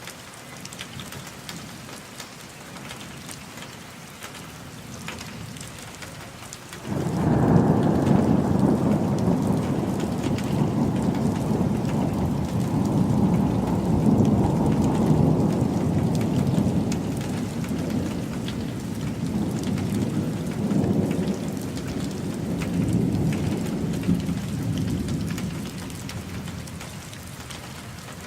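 Steady rain falling. About seven seconds in, a long roll of thunder breaks in suddenly, low and loud, and goes on for nearly twenty seconds before dying back to the rain.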